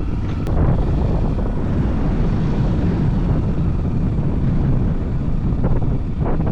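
Tekken motorcycle running steadily on the move, a continuous low rumble with no change in pace.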